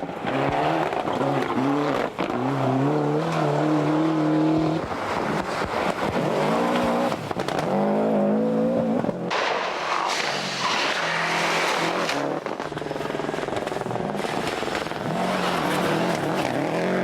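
Rally car engine revving hard, its pitch climbing through the gears several times with short drops in between as it shifts and lifts off.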